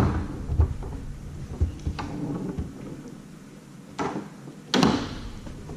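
Foosball table in play: scattered sharp knocks and thuds as the ball hits the players' rods and the table walls, with a louder double knock near the end, over a low rumble.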